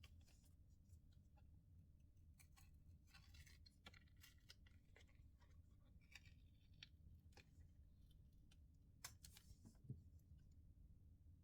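Faint, irregular small clicks and scratching of hand tools and fingers working on a smartphone's case during disassembly, over a low steady hum, with two sharper clicks near the end.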